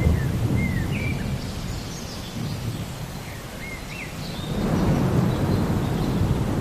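Thunder rumbling over steady rain. The rumble fades over the first couple of seconds and swells again about four and a half seconds in. A bird chirps short, rising and falling notes through the first four seconds.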